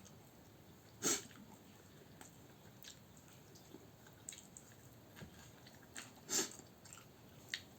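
Quiet eating sounds: chewing and mouth noises, with a few brief sharp smacks or clicks, the loudest about a second in and another around six seconds in.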